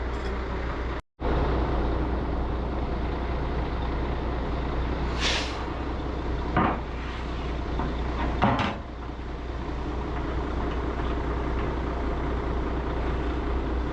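Heavy truck engine running steadily, with a short hiss of air about five seconds in and two knocks a couple of seconds apart.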